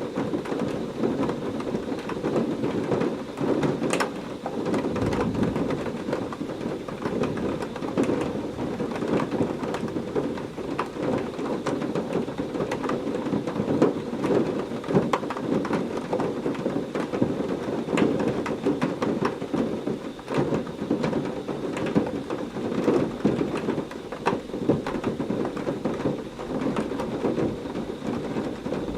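Heavy rain falling steadily, a dense patter with many sharp individual drop hits.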